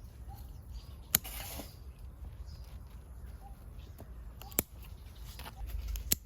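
Three short, sharp taps or knocks, about a second in, midway and near the end, over a faint low background rumble.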